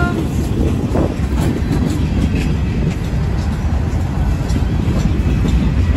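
Manifest freight train's cars rolling past: a steady low rumble of steel wheels on rail with faint clicks.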